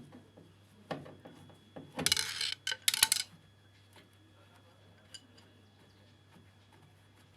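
Small metal screws and tools clinking and rattling: a soft knock about a second in, a loud jangling clatter about two seconds in, then a few sharp clicks, with one faint tick later.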